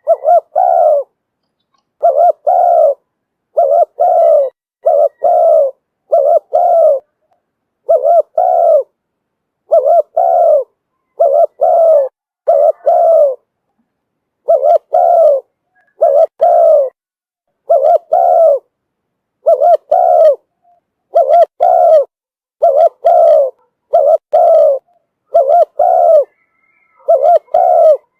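Spotted dove cooing: a decoy bird's call, used to lure wild doves. Loud, low coos come mostly in pairs, about one group every second and a half, with dead silence between groups.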